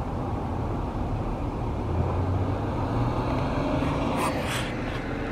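Steady outdoor street traffic noise, with a vehicle's engine hum swelling about two seconds in and fading again. A few faint short taps come about four seconds in.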